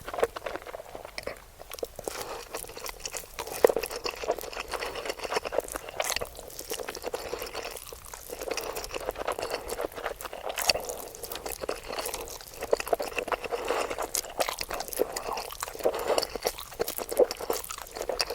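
Close-miked eating: a person chewing and biting food, a dense, uneven run of crunches and wet mouth clicks.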